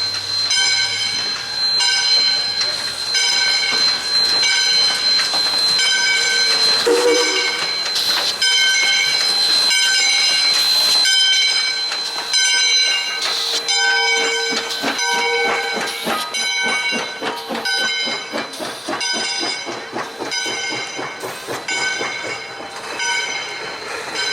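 A steam locomotive at work, its bell ringing steadily at more than one stroke a second over a steady high hiss. Sharp exhaust chuffs come faster from about halfway through as the engine gets moving.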